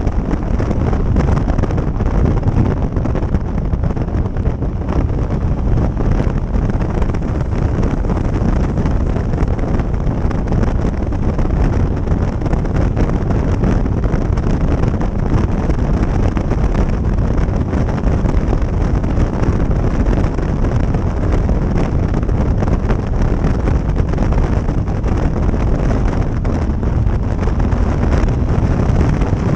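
Steady wind noise buffeting the microphone of a motorcycle at road speed, with the bike's running noise underneath.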